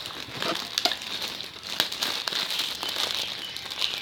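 Crinkling, rustling handling noise with scattered light clicks over a steady hiss.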